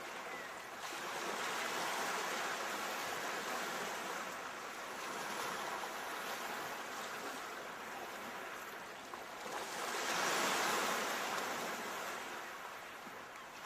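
Ocean waves washing ashore, the surf rising and falling in slow swells, with the biggest wave breaking about ten seconds in.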